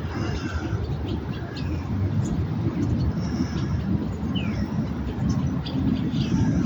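Swallows twittering in a string of short, high chirps, over a steady low rumble.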